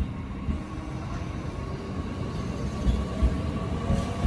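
Stainless-steel JR electric commuter train running along the platform: a low rumble of wheels on rail with a few sharp clacks over the rail joints. A faint electric motor whine builds toward the end.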